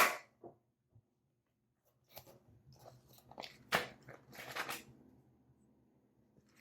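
Plastic Blu-ray case snapping open with a sharp click, then a few seconds of crinkly, crackling handling of the case and its paper insert.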